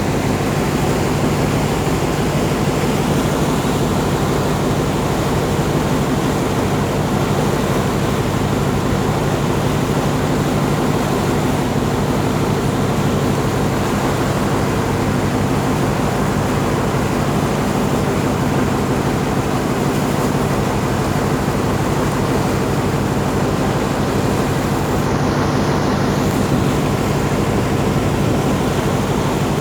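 Canal boat's engine running steadily under way, with a fast low pulse over a steady rushing noise.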